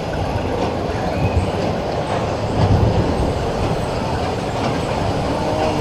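Roller coaster car running along its steel track, a steady loud rumble with rattling and clacking from the wheels.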